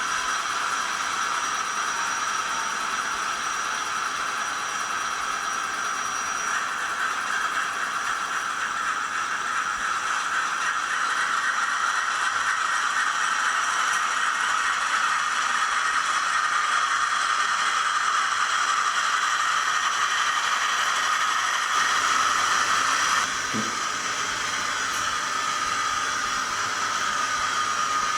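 A model locomotive's DCC sound decoder plays diesel locomotive engine sound through its small onboard speaker: a steady, hissy, rattling drone.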